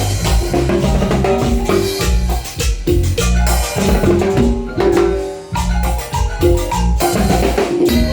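Marimba band music: marimba melody over a steady bass line and drum kit, playing an upbeat dance tune.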